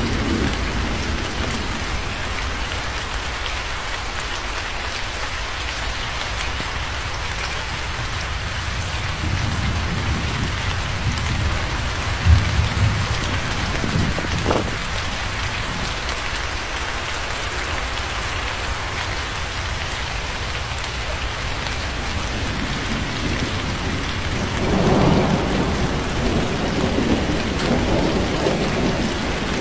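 Steady heavy rain with thunder: a low rumble builds about a third of the way in, peaking in a heavy thump followed shortly by a short sharp crack, and another rumble rolls in near the end.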